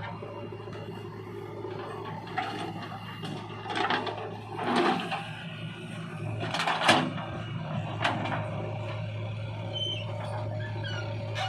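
JCB 3DX backhoe loader's diesel engine running steadily, with several louder surges and knocks while it works, the loudest about seven seconds in.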